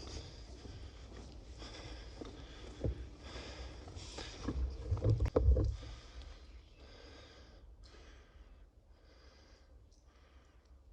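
Footsteps crunching steadily along the trackbed of a disused railway tunnel, about one step every 0.7 seconds and growing fainter after about six seconds. A few loud low thumps come around the middle.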